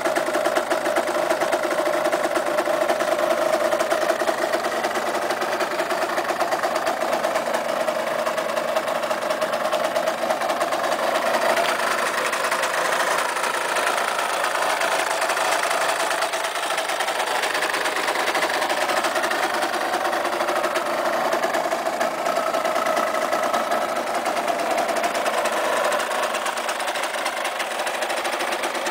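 Yamaha DT 125R's 125 cc single-cylinder two-stroke engine running steadily at idle, with a buzzy, rattly note.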